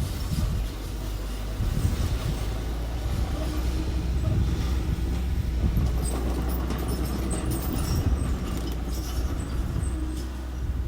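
Engine of small construction machinery running steadily, with scattered light metallic clicks between about six and nine seconds in.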